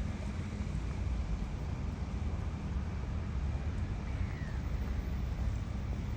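Steady low outdoor rumble, with wind buffeting the microphone.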